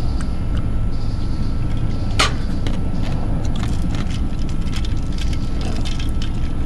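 Steady low outdoor rumble with scattered small clicks and one sharp clink about two seconds in.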